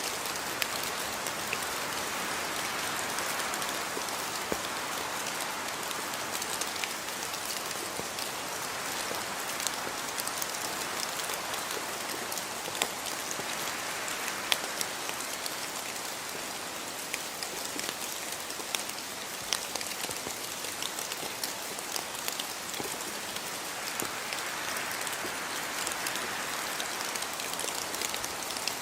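Steady rainfall, an even hiss with many individual drops pattering and ticking on surfaces.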